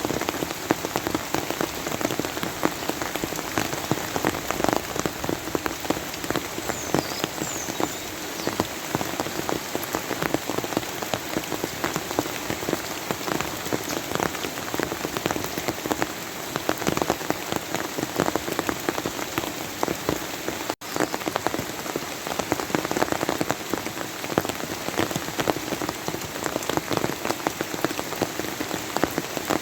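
Steady rain falling on a surface, a dense even patter of individual drops, with a momentary break about two-thirds of the way through.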